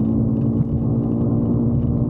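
Motorcycle engine running steadily at highway cruising speed: a constant hum that holds one pitch.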